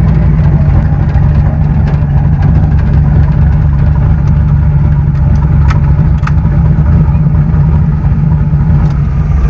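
Vehicle engine running steadily at idle, a loud even low hum with no change in speed.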